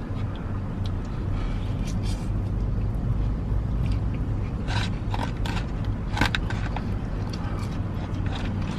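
Steady low hum inside a car, with a few short crackles and clicks from eating fast food, the loudest about five and six seconds in.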